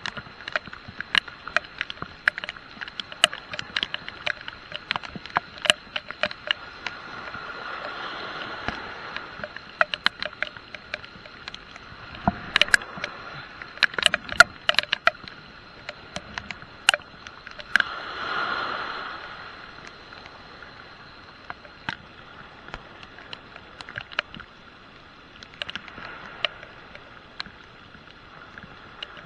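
Heavy rain: raindrops striking the camera in sharp, irregular taps over a steady rain hiss, with the hiss swelling briefly about eight seconds in and again about eighteen seconds in.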